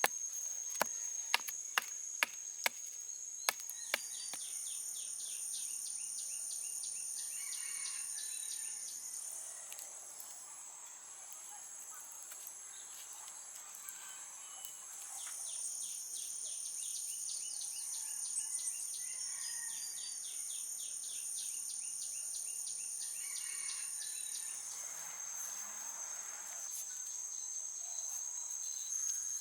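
A steady jungle insect chorus with high continuous trilling. In the first few seconds there is a run of sharp knocks, about two a second, like chopping.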